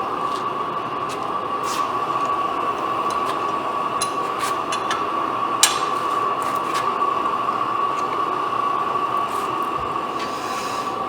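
Steady roar of a burner flame heating the engine under its extension chimney, with a steady whistling tone in it. A few light, irregular clicks sound over it.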